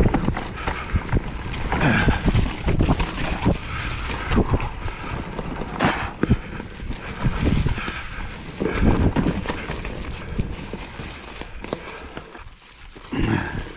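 Wind buffeting the microphone over the rumble, knocks and rattles of a Whyte E180S e-mountain bike riding over a rough dirt trail, easing briefly near the end.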